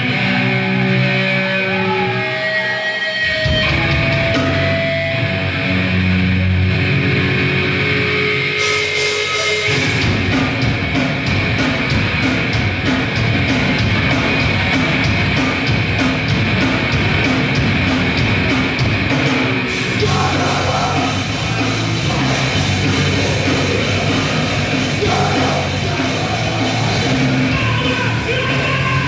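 Grindcore band playing live, loud: a lone guitar playing a riff, bass coming in about three seconds in, then drums and cymbals crashing in at about nine seconds and the full band playing on together.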